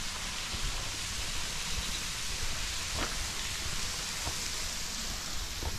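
Waterfall pouring into a pool: a steady rushing hiss of falling water with a low rumble underneath.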